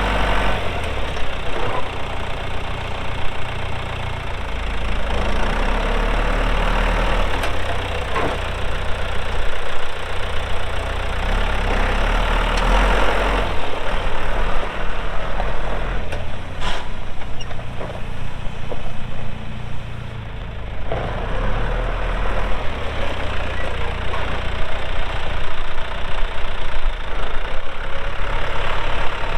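1989 John Deere 2555 tractor's diesel engine running, its level rising and falling as the tractor is worked, with one sharp click about 17 seconds in.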